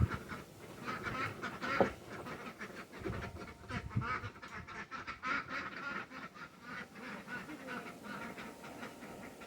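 A flock of domestic ducks quacking and chattering, with many short calls overlapping throughout.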